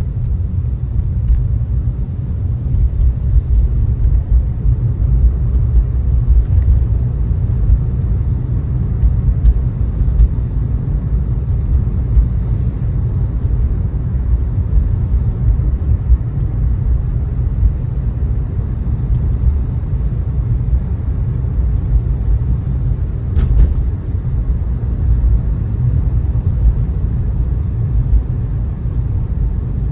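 Car driving on a wet road: a steady low rumble of road and tyre noise, with a few faint clicks, the clearest about 23 seconds in.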